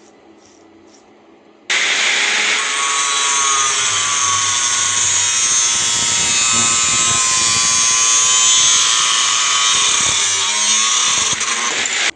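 An electric power tool working metal runs loudly and steadily with a high, ringing whine. It starts abruptly a couple of seconds in and cuts off sharply near the end.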